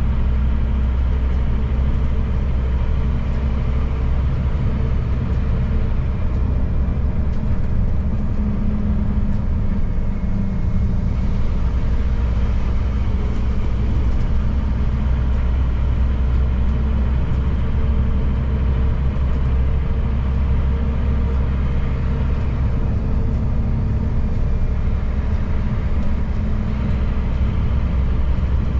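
Scania P310 truck's diesel engine, a 9-litre five-cylinder, running steadily while the truck drives along at an even pace: a low, constant drone.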